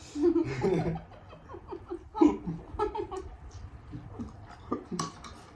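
Brief soft laughter and chuckling, with a few small sharp clicks near the end.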